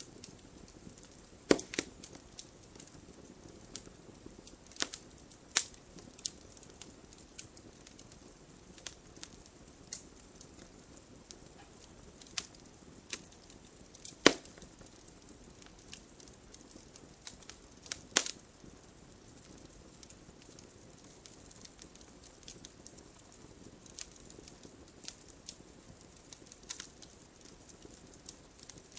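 Wood fire crackling: irregular sharp pops and snaps over a faint steady hiss, with the loudest pop about halfway through.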